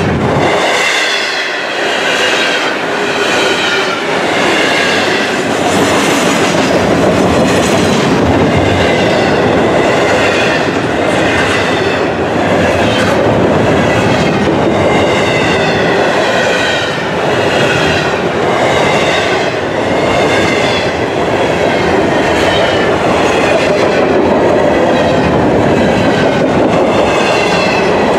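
Double-stack intermodal well cars of a long freight train rolling past close by. Their wheels make a steady rumble with a regular clatter over the rail joints, and a wavering high-pitched whine rides over the top.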